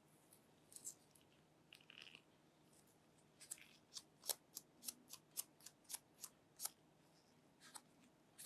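Faint handling of a smartphone and its packaging: soft rustling, then a quick run of small sharp clicks and taps, about four a second, for around three seconds.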